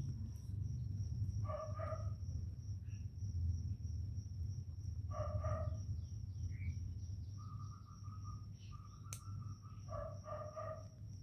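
A bird calling in short double notes, three times, with a longer held note between the second and third calls. Under it runs a steady low hum with a thin high whine.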